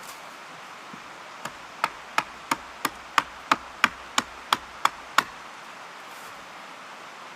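About a dozen quick, sharp strikes on wood, roughly three a second, with a hand tool, stopping after about four seconds.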